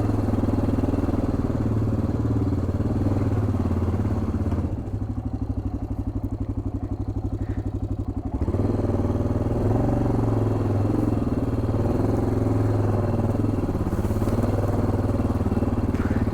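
1987 Yamaha XT600Z Ténéré's single-cylinder four-stroke engine running as the bike is ridden slowly. About five seconds in it drops to a slower, pulsing low-rev chug for a few seconds, then picks up again with the revs rising and falling.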